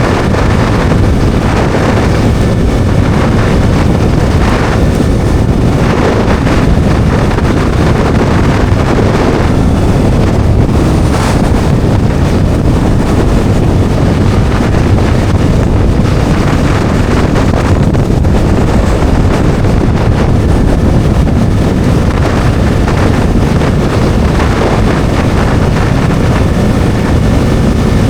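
Steady wind rushing over the microphone while a Bajaj Dominar 400 rides at speed, with its 373 cc single-cylinder engine humming underneath.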